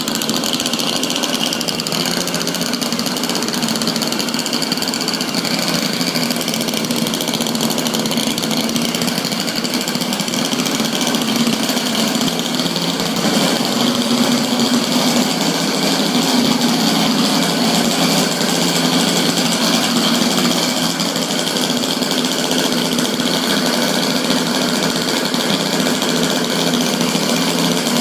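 Small gasoline engine of a single-engine RC quadcopter running steadily at speed, a little louder around the middle.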